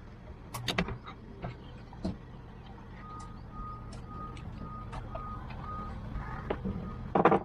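Sharp metallic knocks and clanks of tools on the boat's stern steering cylinder fittings, loudest near the end, over a steady low hum. From about three seconds in, a high electronic beep repeats about twice a second.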